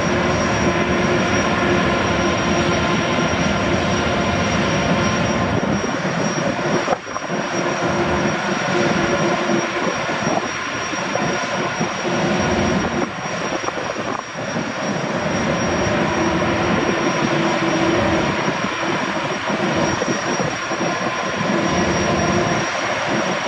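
Loud, continuous machine noise with a steady high whine running through it, which the uploader takes for sanding or grinding work aboard a moored car ferry. It briefly drops about seven seconds in.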